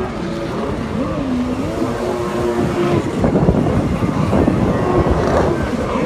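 Racing personal watercraft engines running hard with a wavering pitch, over a rushing noise of water and wind that grows denser about halfway through.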